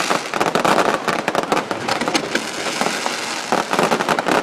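Fireworks going off: many sharp cracks and pops in quick succession.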